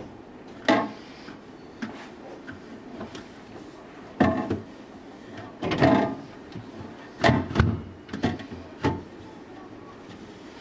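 A series of separate short knocks and clatters, about six over several seconds, of storage containers and drawers being handled while a refrigerator is put in order.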